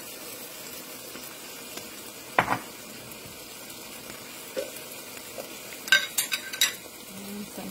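Onions and sauce sizzling in a wok as a spatula stirs them, with a sharp knock about two and a half seconds in and a quick run of clinks and scrapes of the spatula against the wok near the end.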